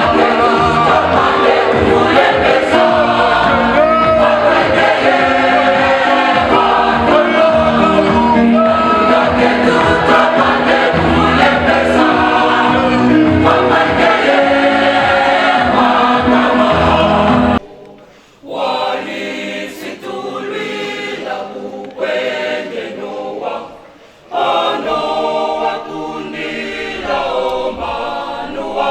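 Choir singing a gospel song over an instrumental backing with a steady bass. It cuts off abruptly about two-thirds of the way in. After a short gap a choir sings unaccompanied, pausing briefly once near the end.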